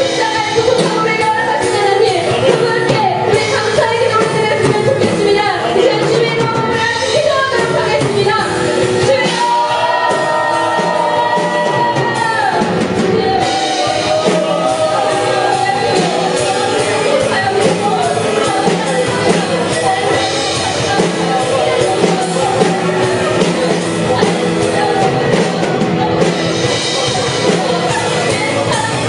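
A live praise band playing a worship song with singing.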